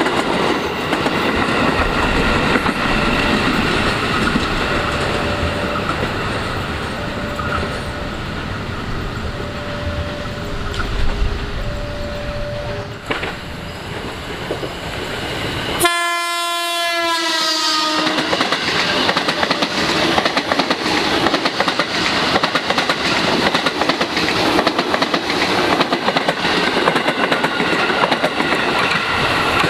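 Train running on the rails with a steady rumble, and the horn sounding once for about two seconds about halfway through.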